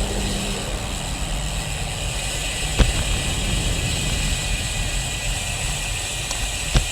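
Steady wind and road noise while riding a Cervelo Caledonia road bike, with a sharp knock about three seconds in and another near the end.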